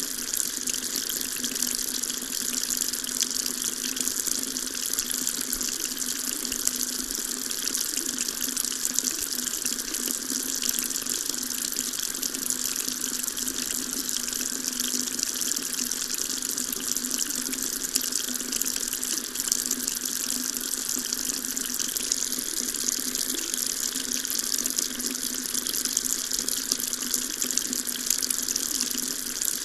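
Tap running steadily, a continuous stream of water splashing into a sink with an even hiss.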